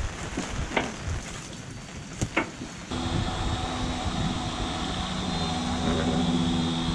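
Steady rain with a couple of sharp taps. About three seconds in it cuts abruptly to a steady mechanical hum with a faint high whine.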